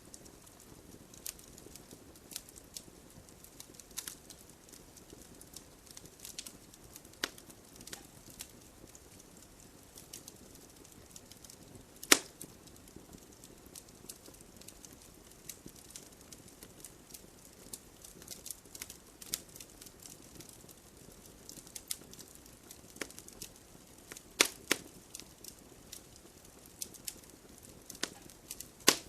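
Wood fire burning in a fireplace: a low steady hiss of flames with irregular crackles and sharp pops from the logs, the loudest pop about twelve seconds in and a cluster of loud pops near the end.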